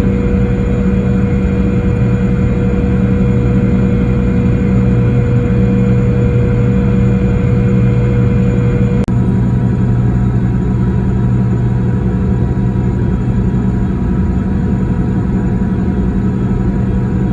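Steady engine drone with a low hum and a few held tones; about nine seconds in there is a short click and one higher tone drops out.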